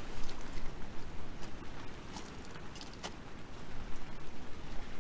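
Driving rain with scattered sharp drop strikes, and gusting wind rumbling across the microphone.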